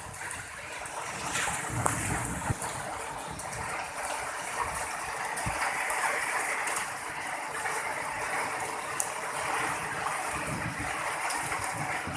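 Heavy tropical downpour: steady rain with water running and splashing, and scattered drips and spatters.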